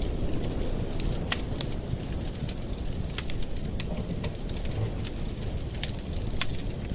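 Campfire burning: a steady low rumble of flames with scattered sharp pops and crackles of burning wood, the loudest just over a second in.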